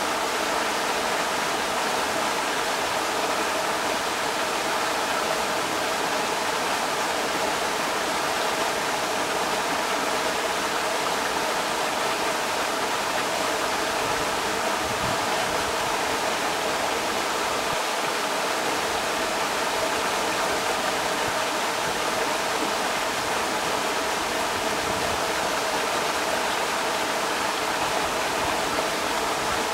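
Creek water rushing steadily over rocks, a constant even hiss and splash.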